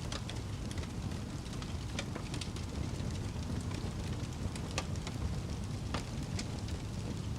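Wood fire burning in a fireplace: a steady low rumble of the flames, with several sharp crackles and pops from the burning wood at irregular intervals.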